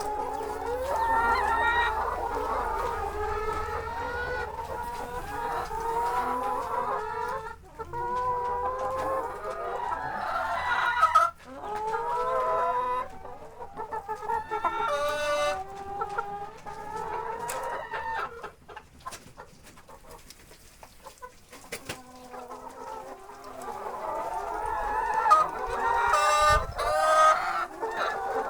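A flock of Lohmann Brown pullets clucking and calling together, many calls overlapping. It quietens for a few seconds past the middle, then builds up louder again near the end.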